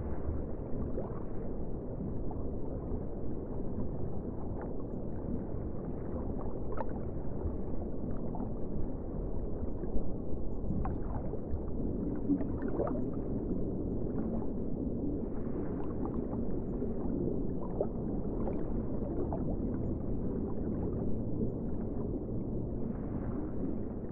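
Ocean water sounding as a steady, muffled wash, with faint gurgling and scattered small clicks.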